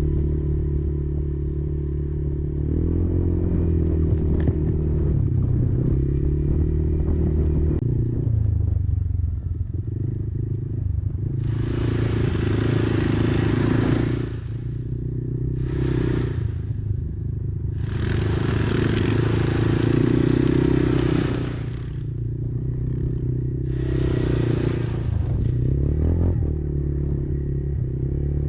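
Kymco Maxxer 300 quad's engine running under changing throttle, its pitch shifting up and down several times. Four bursts of rushing noise, each a second to three seconds long, come in the second half.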